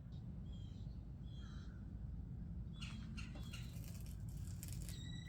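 Birds calling outdoors, several short calls over a steady low rumble.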